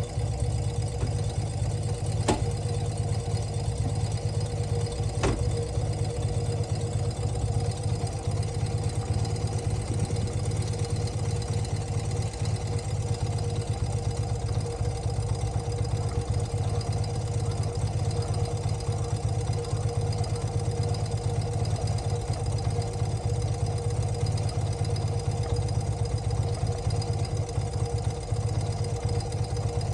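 1983 BMW R100CS's air-cooled boxer twin idling steadily, its mixture screws freshly adjusted. Two faint clicks sound in the first few seconds.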